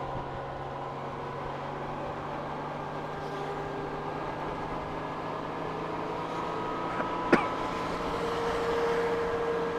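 Honda Gold Wing motorcycle riding on a wet road: a steady engine hum under the hiss of tyres and wind. A single sharp click sounds a little past seven seconds in.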